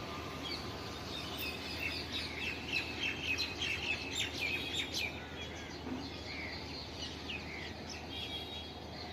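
Several birds chirping in quick, short, high notes, busiest from about two to five seconds in and thinning out after.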